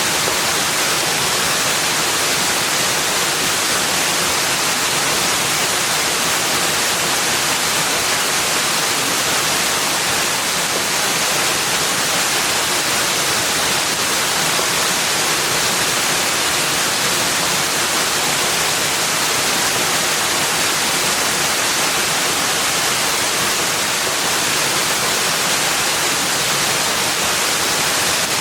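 Steady, even rushing of water, a bright hiss with no breaks, birds or other sounds over it.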